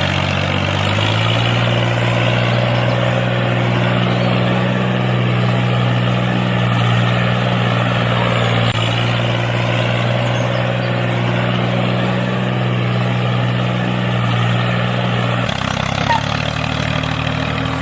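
A motor running steadily with a low hum, which shifts in pitch about a second in and again near the end.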